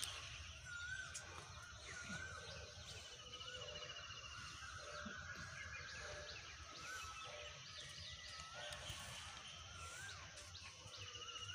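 Faint birds chirping outdoors: a short rising-and-falling call repeats every second or two, with a high trill now and then, over a low steady background rumble.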